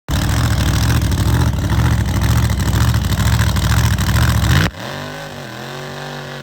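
Car engine held at high revs with a low rumble pulsing about twice a second. About four and a half seconds in it drops off the throttle to a quieter, steady lower note.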